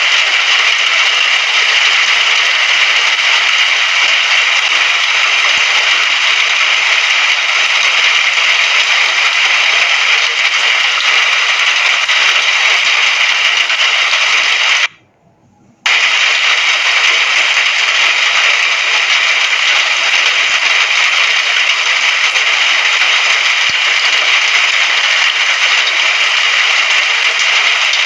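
Steady rain hiss, an even wash of falling rain. It cuts out abruptly for about a second around the middle, then comes straight back.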